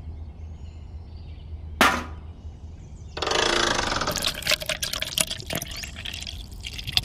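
Wet grey cement mix pouring from a miniature concrete mixer's tilted drum into a small pail. The pour starts with a rush about three seconds in, then goes on in splashes and drips. A single knock about two seconds in.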